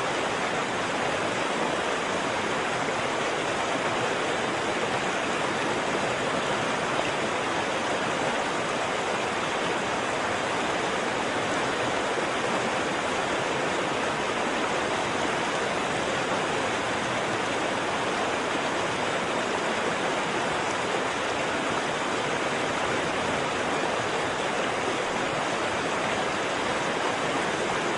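Waterfall: water falling and rushing in a steady, unbroken roar of white water.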